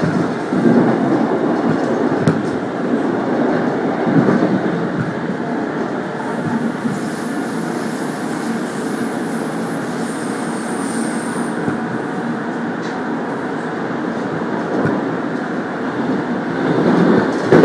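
Passenger train running along the line, heard from inside the carriage: a steady rumble of wheels on rails with a few knocks. A thin high-pitched squeal starts about six seconds in, lasts about five seconds and dips slightly in pitch before it stops.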